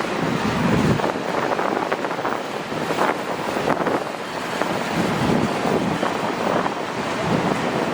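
Freight train rolling past: a steady rushing noise of wheels on rails, with uneven clatter throughout.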